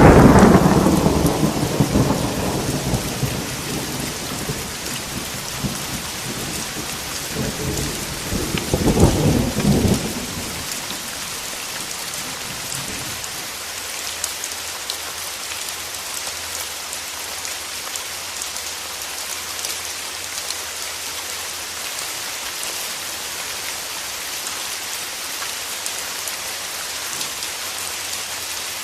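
Thunderstorm with steady rain. A rumble of thunder is fading away at the start, a second rumble rises and stops about ten seconds in, and after that only the even patter of rain remains.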